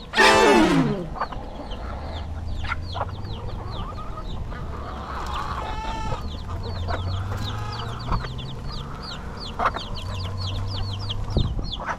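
A flock of chickens: chicks peeping nonstop in short, high, falling notes several times a second, with hens clucking. A loud squawk that falls steeply in pitch in the first second is the loudest sound.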